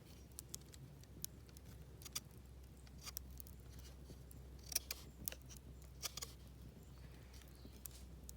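Knife whittling a cherry-wood campfire fork: irregular short, sharp cuts and scrapes of the blade shaving the wood as a split end is trimmed.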